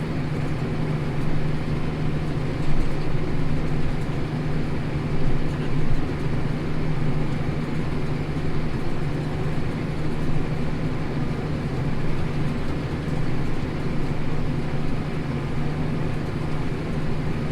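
Tractor engine running steadily under load while pulling a plough, an even, constant drone.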